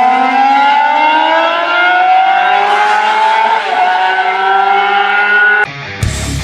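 Suzuki GSX-RR MotoGP racing motorcycle's inline-four engine running at high revs under hard acceleration, its pitch climbing steadily with a brief dip about three and a half seconds in, like a gear change. It cuts off suddenly and guitar music starts near the end.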